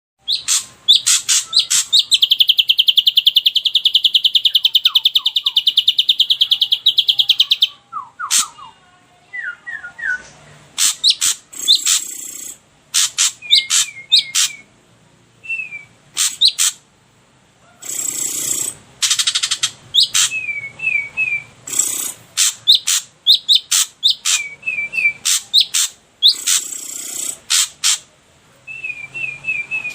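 Songbird calls of the harsh 'kasar' and rapid 'tembakan' kinds: a fast rattling trill for about five seconds near the start, then rasping calls alternating with short falling whistled notes, often in runs of three or four.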